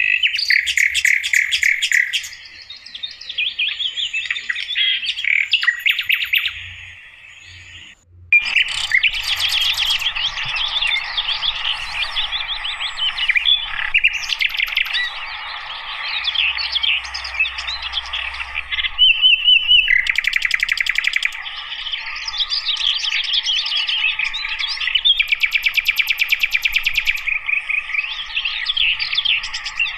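Sikatan londo flycatcher singing: a long run of rapid, varied chirps and trills that breaks off briefly about seven seconds in, then carries on.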